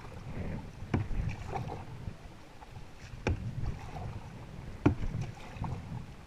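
Canoe being paddled on a river: paddles splashing and water rushing, with three sharp knocks against the canoe about a second in, after three seconds and near five seconds, the last the loudest.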